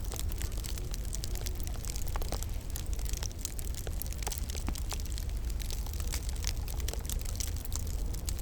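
Wood fire burning in a fireplace: frequent small crackles and pops over a steady low rumble.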